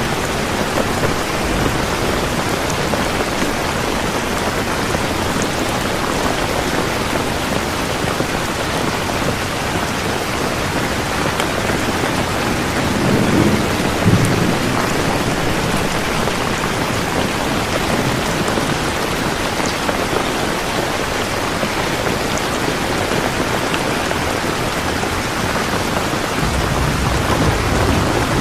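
Steady, heavy rain hissing evenly. A low rumble of thunder swells about halfway through, and a softer low rumble comes near the end.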